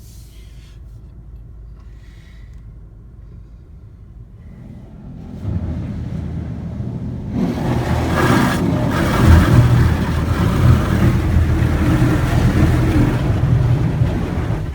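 A low idling rumble heard from inside the car. After about five seconds a loud rushing spray builds in two steps over a heavy low rumble: the car wash's undercarriage and rocker-panel blasters spraying as the car rolls into the bay. The spray cuts off suddenly near the end, the blasters shutting off partway through the car's entry.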